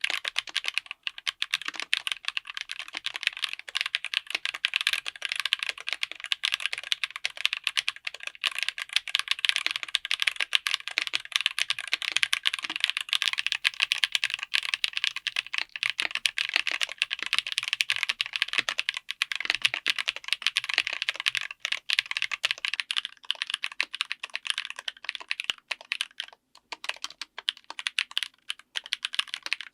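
Continuous fast typing on a mechanical keyboard fitted with tactile switches: a dense run of crisp keystroke clicks, thinning a little past the middle.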